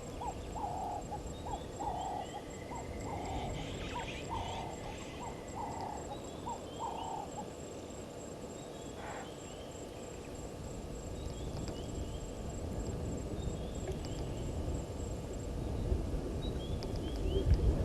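Birds calling at a waterhole in the bush. One bird repeats a low call about twice a second for the first seven seconds, while others give short, high, falling chirps throughout. A steady thin high tone and a low rumble run underneath.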